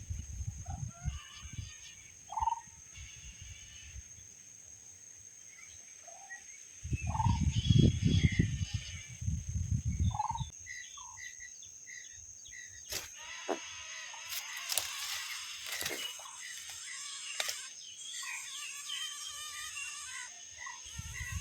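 Birds calling in a tree: a short note repeated every second or two, with rows of higher chirps later on, and a stretch of rustling leaves and twigs in the middle. A steady high whine runs underneath, and low rumbling gusts hit the microphone now and then.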